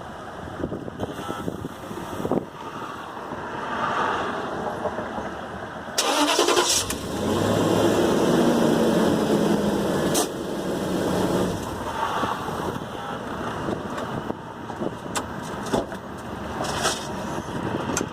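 Land Rover LR3 rear differential locker actuator making its fault noises: a sudden clunk about six seconds in, then a motor whirring steadily for about four seconds, with sharp clicks later on. The noises come with fault codes P186D and P080A, the sign of a faulty rear diff actuator.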